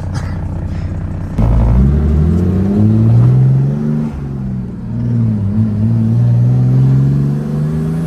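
Turbo diesel Mercedes engine accelerating hard, getting suddenly louder about a second and a half in. Its pitch climbs, falls back and climbs again as it pulls away.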